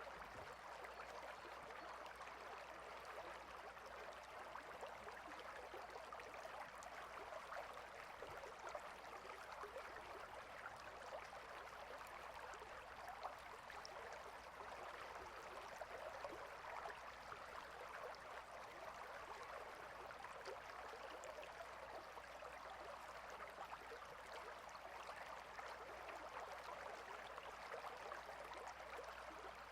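Water stream flowing steadily: a faint, even rush of running water.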